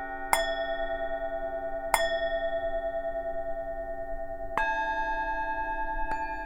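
Tibetan singing bowls struck one after another, four strikes, each leaving a long, wavering ring that overlaps the last; the later strikes sound different pitches.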